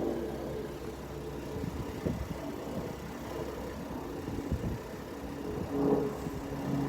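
Truck engine idling, with irregular low knocks and rumble on the microphone through the middle. A steadier hum comes in near the end.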